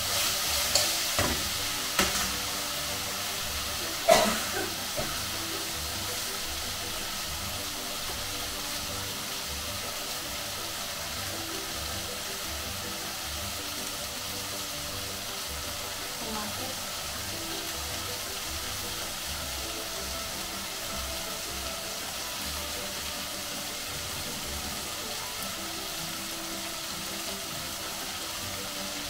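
Diced potatoes sizzling steadily as they fry in oil in a black kadhai. A few sharp knocks of a spatula against the pan come in the first four seconds, the loudest at about four seconds in.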